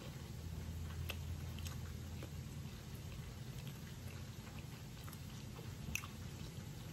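A person chewing a mouthful of cheeseburger, with scattered small wet mouth clicks, the sharpest about six seconds in, over a steady low hum.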